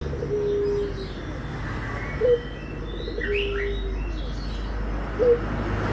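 Domestic ringneck dove (puter) cooing in two cycles about three seconds apart. Each cycle is a long, steady low coo followed by a short, louder rising note. Small birds chirp faintly in the background.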